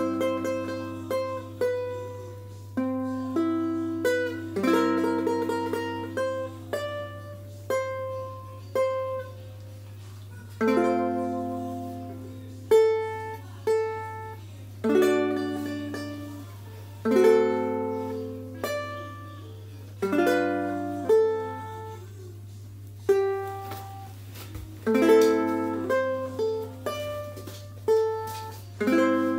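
A ukulele tuned low-G GCEA and strung with Worth Brown strings, fingerpicked solo in a nice and mellow tone. Single notes alternate with strummed chords, each left to ring out and fade. A steady low hum runs beneath the playing.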